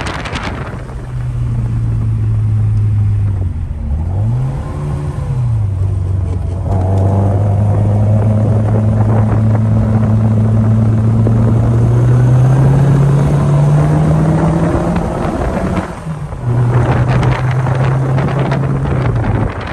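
1963 Morris Mini Cooper's A-series four-cylinder engine running under way, heard from inside the cabin. Its pitch dips and rises quickly a few seconds in, climbs steadily as the car accelerates, drops off briefly near the end as the revs fall, then pulls again before easing off.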